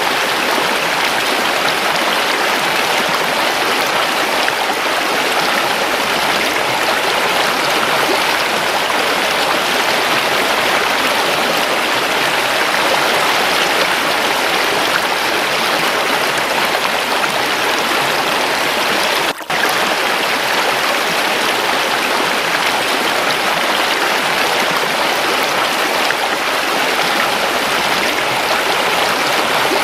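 Waterfall: running water rushing steadily, with a momentary break about two-thirds of the way through.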